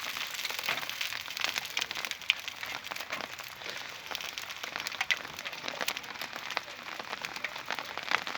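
Rain falling, with many irregular drop taps close by.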